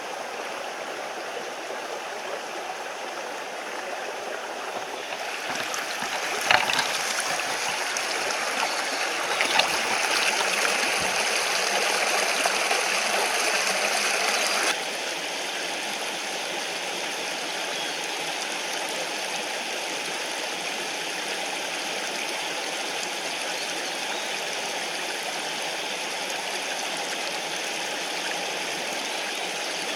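Mountain stream running steadily over rocks, with a couple of sharp clicks about six and nine seconds in. About halfway through the water sound drops abruptly to a slightly quieter, steadier rush.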